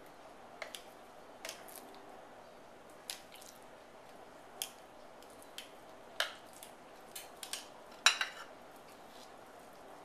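Scattered light clicks and taps of kitchen utensils and a platter while raw chicken cutlets are turned and seasoned, with a couple of sharper knocks near the end.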